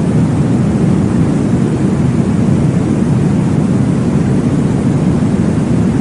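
Steady, low-pitched rushing noise of a baby-sleep white-noise track, unchanging throughout.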